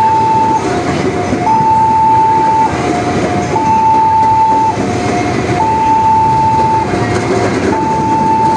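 Railway level crossing's electronic warning alarm sounding a repeating two-tone signal, a longer high note then a shorter lower one, about every two seconds, over the rumble of a passing train.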